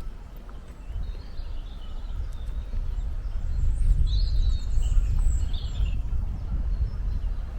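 Low, gusty rumble of wind on the microphone, growing stronger after about a second, with a few high bird calls near the middle.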